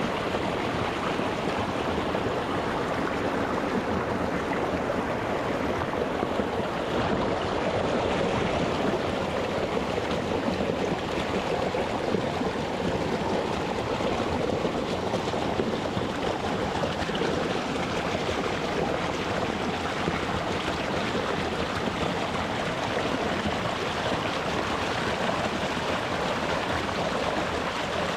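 Rocky mountain stream flowing over stones: a steady, continuous rush of water.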